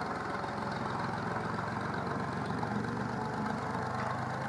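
Ford tractor engine running steadily at idle, a low even hum, before the PTO-driven brush hog is engaged.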